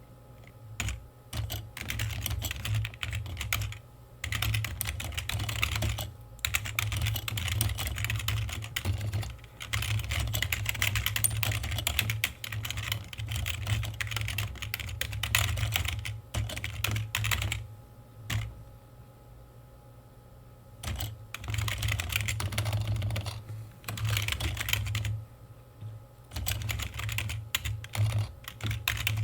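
Typing on a computer keyboard: quick runs of key clicks broken by short pauses, with a longer pause of about three seconds a little past the middle.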